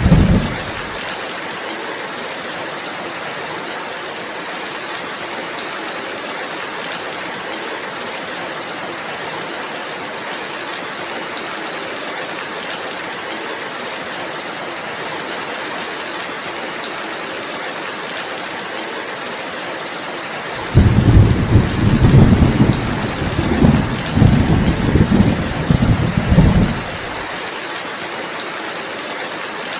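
Steady rain falling, with rolling thunder. One rumble dies away about a second in; about two-thirds of the way through, another rumble swells several times over some six seconds, is the loudest sound, and cuts off suddenly.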